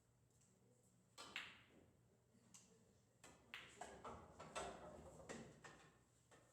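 Pool balls clacking against each other on the table: one sharp clack with a short ring about a second in, then a quick run of lighter clicks and knocks from about three seconds on.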